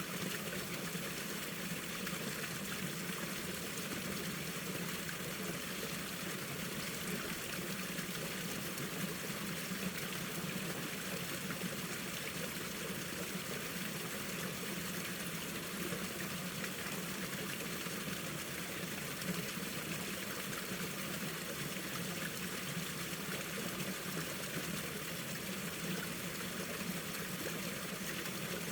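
Mountain stream water flowing and trickling over rocks, steady and unbroken.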